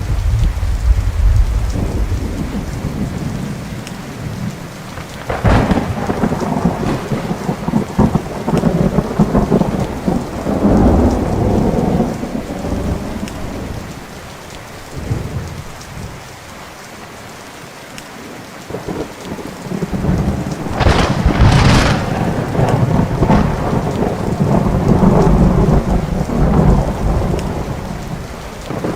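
Thunderstorm: thunder over steady rain. A sharp crack about five seconds in rolls into a long rumble, and two close cracks about three-quarters of the way through are followed by another long rolling rumble.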